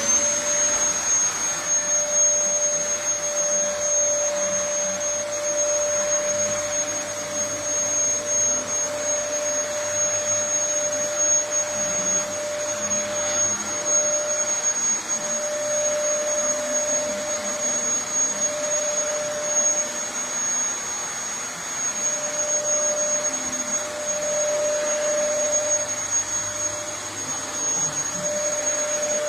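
Vacuum cleaner running steadily with a high motor whine.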